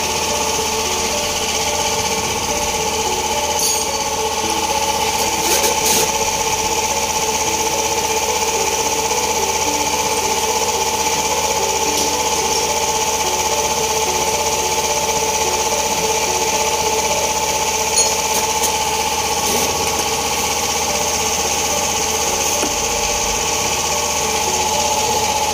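A machine running steadily with a constant high whine.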